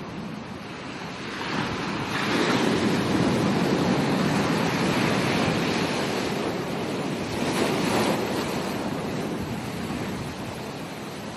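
Ocean waves breaking on a beach: the surf swells about a second and a half in, stays at its loudest for several seconds, then eases off near the end, with some wind on the microphone.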